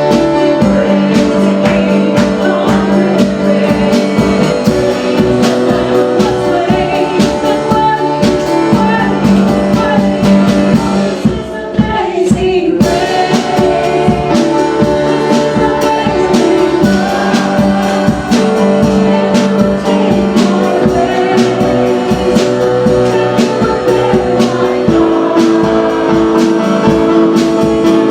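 Congregational worship music: a band playing with voices singing held notes over a steady beat, with a brief drop near the middle.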